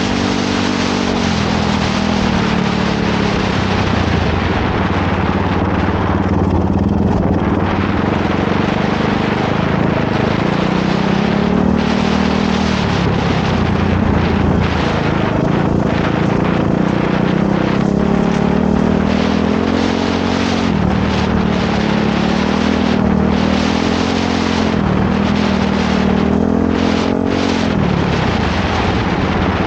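Motorcycle engine running while being ridden, its pitch rising and falling again and again with the throttle and gear changes.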